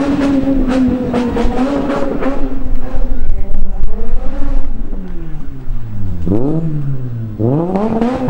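Lotus Elise sports car engine held at high revs, then a loud rough stretch about three seconds in. After that the revs fall away and the engine is blipped twice near the end, each time shooting up quickly and sliding back down.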